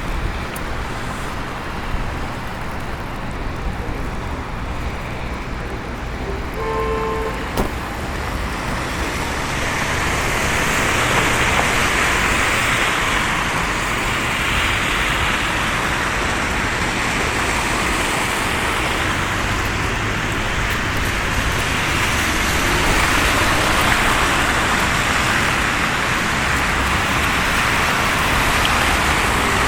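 Road traffic passing on a snowy city street, a steady rumble with a tyre hiss that swells from about nine seconds in. A brief pitched tone sounds about seven seconds in.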